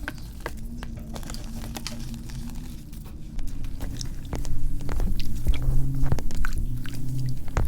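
Close-miked, sped-up crushing of water-reformed gym chalk by hand: dense crunching and crumbling with soft squishes, a quick patter of small crackles that grows louder about halfway through.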